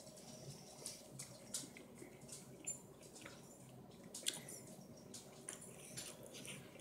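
Faint, wet mouth sounds of a person chewing a mouthful of pear: scattered small clicks and squishes.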